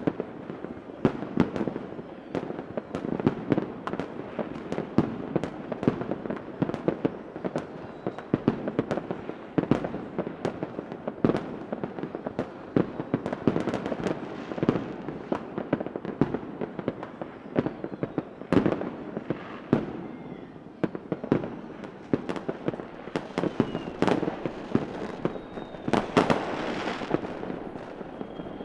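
Fireworks going off in a continuous barrage: many sharp bangs and pops, several a second, over steady crackling, with a denser crackling burst near the end.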